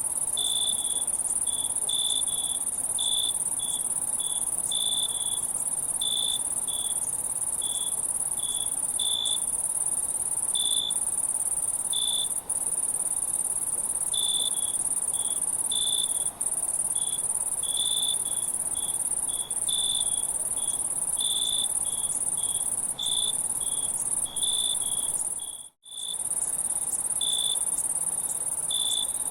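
Insects calling: a steady high-pitched trill with short, repeated chirps over it, one to three a second. The sound drops out for a split second near the end.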